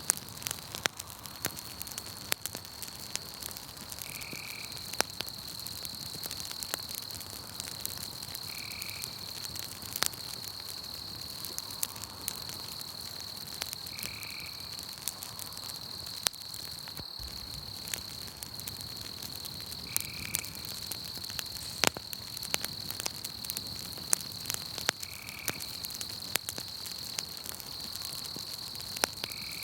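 Campfire crackling with scattered sharp pops, over a steady high trilling of crickets. A short chirp from another night animal repeats about every five seconds.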